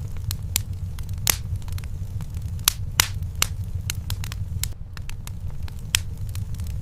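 Wood fire burning in a fireplace: a steady low rumble of flames with irregular sharp crackles and pops, the louder ones about a second, three seconds and six seconds in.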